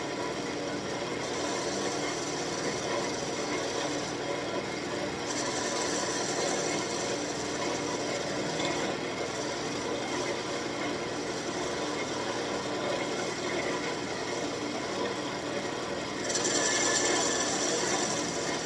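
Wood lathe running while a gouge cuts a spinning birch blank, a steady scraping over the motor's hum. The cut grows louder and brighter about two seconds before the end.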